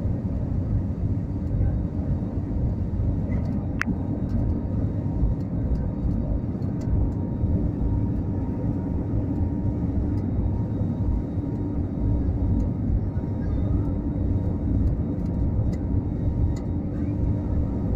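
Airplane engines running during takeoff: a steady low rumble with a steady hum through it. There is a faint click about four seconds in.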